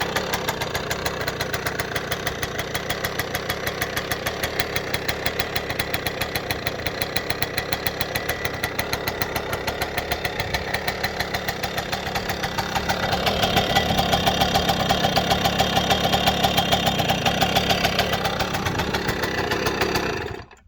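Franco Morini S5-series 50cc two-stroke engine of a kids' motocross bike running with a fast, even beat. About thirteen seconds in it picks up, louder and higher for about five seconds, then settles back, and the sound cuts off suddenly near the end.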